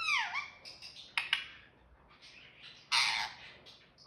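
Indian ringneck parrot calling: a falling squeaky call at the start, a few short chirps a second later, and a harsh squawk about three seconds in.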